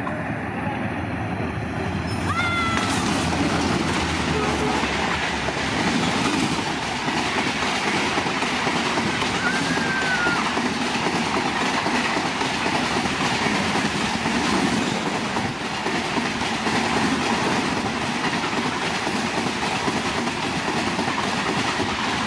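Diesel-hauled passenger train passing at high speed, a loud steady rush of wheels and coaches clattering over the rails, with a short horn note about two seconds in.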